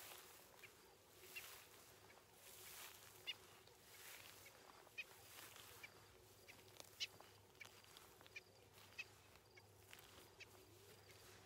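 Birds calling with short, sharp high notes, a dozen or so at irregular intervals, over faint outdoor quiet.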